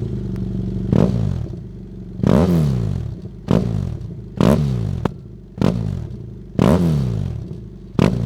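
BMW F800GS parallel-twin engine running through a Dominator R1 exhaust with the dB killer removed, idling and given about seven sharp throttle blips, roughly one a second, each falling back toward idle.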